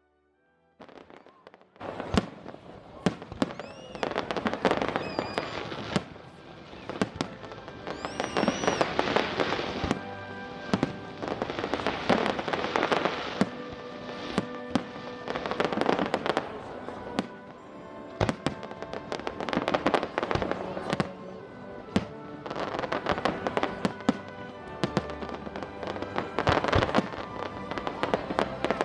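Fireworks display going off: a dense run of sharp bangs and crackling bursts starting about a second in, with a couple of short whistles near the start. Music plays underneath.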